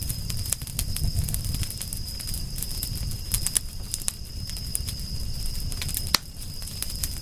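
Wood fire crackling, with irregular sharp pops over a low rumble; one loud pop about six seconds in. A steady high-pitched tone runs underneath.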